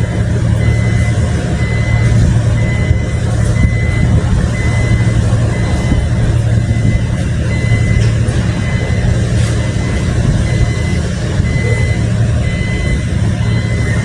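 Heavy construction machinery at a bridge pile-driving site, its diesel engine running steadily with a deep hum. A high warning beeper repeats throughout.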